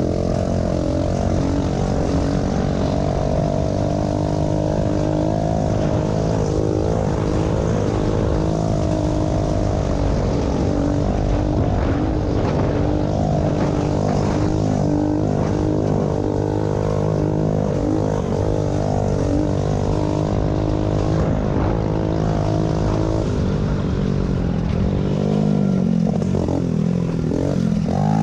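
Small pit bike motorcycle engines running hard, their revs rising and falling with gear changes and throttle.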